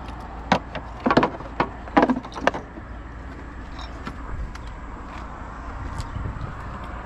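Clicks and knocks of parts and tools being handled in a car's engine bay. There are about six sharp ones in the first two and a half seconds, then only a steady low background noise.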